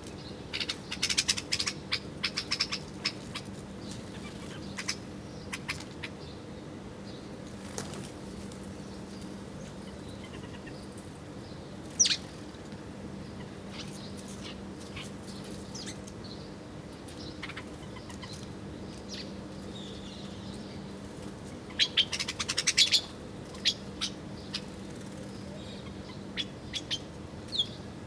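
Small birds chirping in quick, rapid-fire bursts, two clusters of fast chirps with a single sharp call and scattered short calls between them, over a faint steady low hum.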